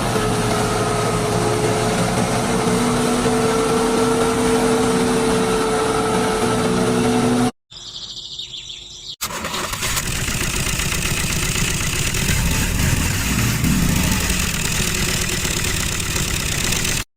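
Small machine motor running steadily with a hum. It cuts off suddenly about seven and a half seconds in, and after a quieter moment a denser, noisier machine sound carries on.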